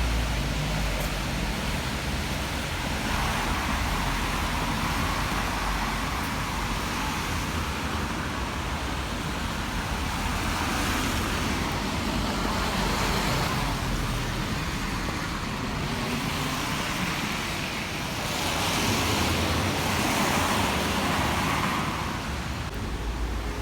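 Road traffic on a wet road: a steady hiss of cars, swelling as vehicles pass, twice louder in the second half.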